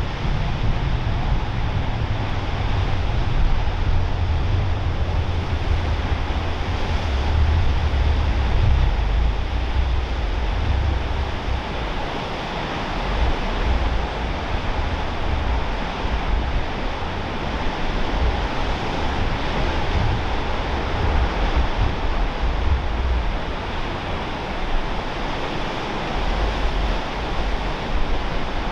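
Steady noise of ocean surf and wind, with wind buffeting the microphone in a low, uneven rumble that is heaviest over roughly the first twelve seconds.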